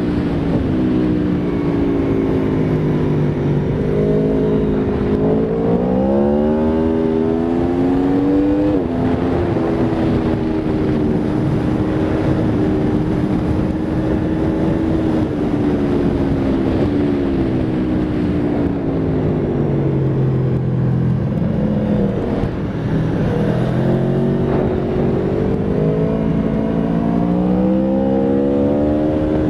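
Aprilia Tuono V4 RR's V4 engine under way on track. It climbs in pitch through the revs a few seconds in, with a sharp drop at a gear change, then holds a steady high note. Past the middle it winds down as the bike slows, and it climbs again near the end.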